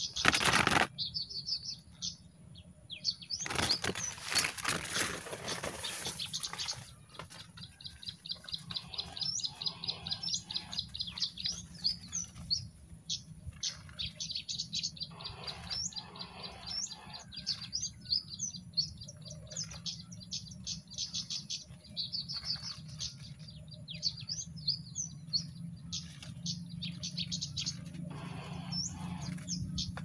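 Small birds chirping in rapid, high trills, in runs that keep recurring. About four seconds in there are a few seconds of loud rustling or wing-flapping.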